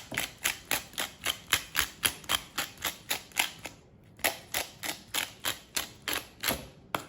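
Pepper mill being twisted, a fast even run of clicks about five a second, with a short pause near the middle before it starts again.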